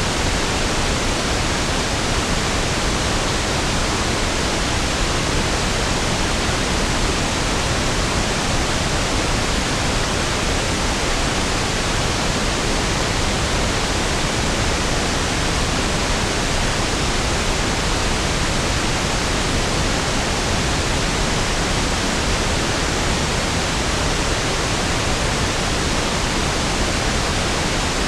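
Steady pink noise: an even, unchanging rushing hiss with equal energy per octave, smoother and deeper than white noise.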